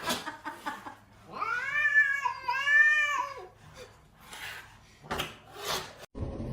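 A domestic cat meowing: two drawn-out meows back to back that rise and fall in pitch, followed by a few short breathy sounds.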